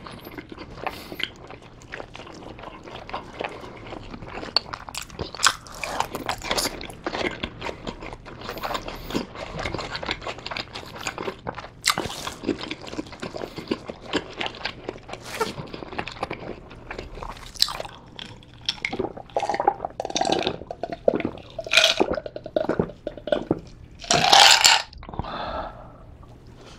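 Close-miked chewing and swallowing of Korean blood sausage (sundae), with many short wet mouth clicks and smacks. Near the end there is one louder sound lasting about a second.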